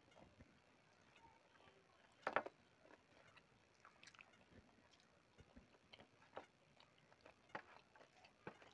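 Faint sounds of a person chewing rice and curry eaten by hand: scattered soft mouth clicks and smacks, with one louder one about two seconds in.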